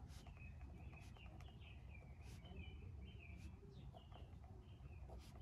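Faint small-bird chirping, short repeated chirps several times a second, over a steady low background hum, with a few brief sharper sounds mixed in.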